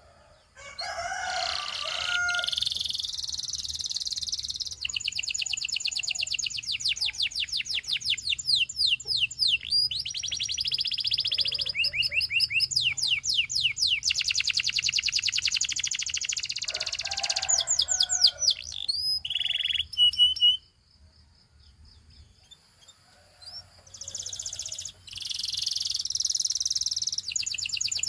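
Canary singing: long high-pitched runs of rapid trills and repeated sweeping notes, stopping for a few seconds about three-quarters of the way through before the song starts again.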